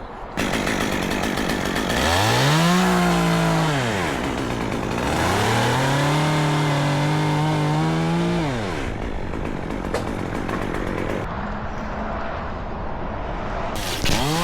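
Chainsaw revved up to high speed and held there twice, each time for a few seconds, dropping back to a low run in between. It revs up again near the end.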